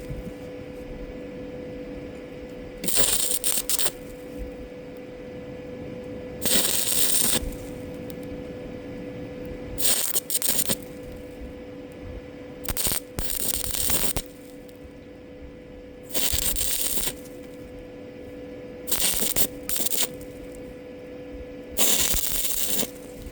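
Stick-welding arc crackling in about seven short bursts of a second or so each, stitch welds struck and broken off one after another, with a steady hum underneath between them.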